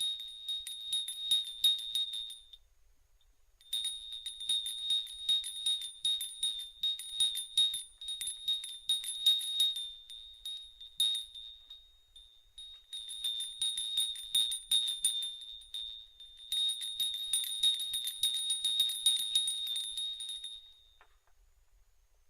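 Small metal bells or chimes tinkling in long bursts with brief pauses between, a bright high jingle made of many quick strikes.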